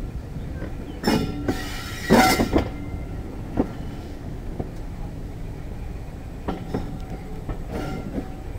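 2-EPB electric multiple unit carriage in motion: a steady low rumble of wheels on the track. A loud rattling clatter comes about a second in and again about two seconds in, and lighter knocks over the rail joints follow later.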